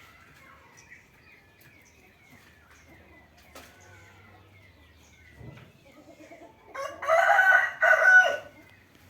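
A loud crow from a fowl about two-thirds of the way in, lasting about a second and a half in two parts, over faint high chirping.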